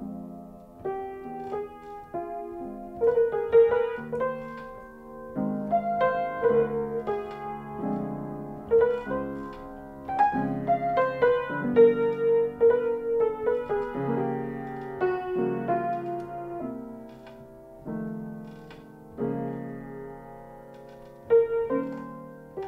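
Piano music: chords and single melody notes struck one after another, each ringing and fading.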